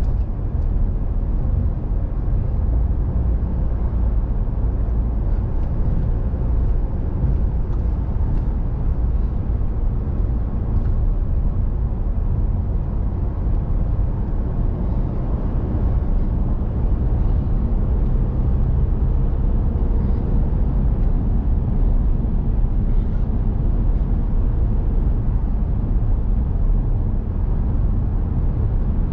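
Steady road and engine noise of a car driving at highway speed, heard from inside the cabin as a constant low rumble.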